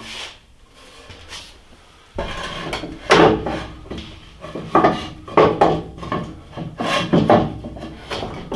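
Metal and wood clunking and scraping as a lathe's under-drive assembly is turned and worked loose in its cabinet base, resting on wooden boards. Fairly quiet at first, then a string of irregular knocks and scrapes from about two seconds in.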